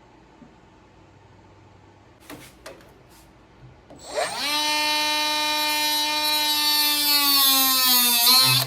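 Handheld electric power tool with a carbon blade cutting a small piece of wood. A few handling clicks come first; about four seconds in it spins up quickly to a steady high whine, which dips a little in pitch under load before stopping suddenly.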